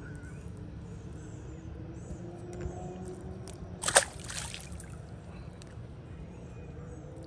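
A released largemouth bass splashing into the lake once, about four seconds in: a sharp splash that trails off within half a second.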